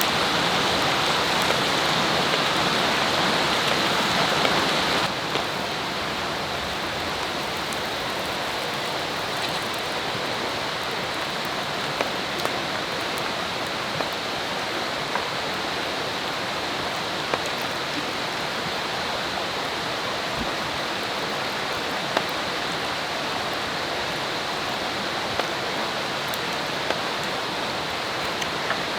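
Steady rushing of a river or stream, with a few sharp pops scattered through it. The sound drops a little in level about five seconds in.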